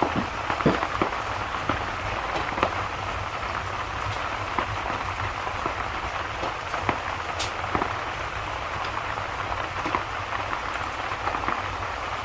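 Steady rain, a continuous even hiss, with many small scattered ticks and pops through it.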